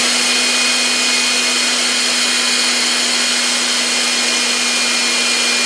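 Battery-powered hair dryer running steadily at full speed: a rush of air over an even motor hum and a higher whine.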